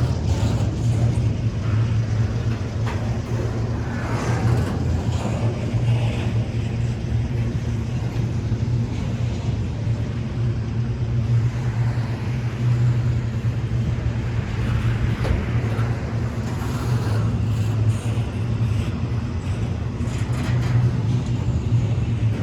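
Norfolk Southern intermodal freight train running, a steady low rumble with irregular rattling over it.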